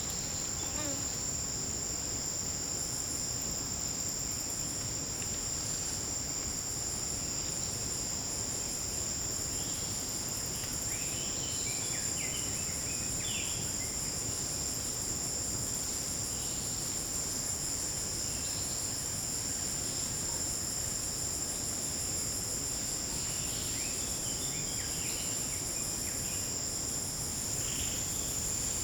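A dense, steady, high-pitched chorus of forest insects, crickets and the like, buzzing without a break. Scattered short faint chirps sound about a third of the way in and again toward the end.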